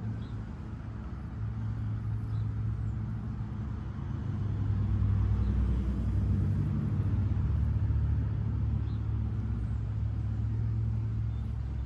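A steady low mechanical rumble, like an engine running nearby, that grows louder about four seconds in and eases off near the end.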